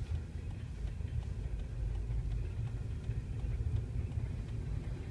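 Freight train of tank cars and covered hoppers rolling past a level crossing: a steady low rumble with faint scattered clicks of wheels on the rails, heard from inside a car.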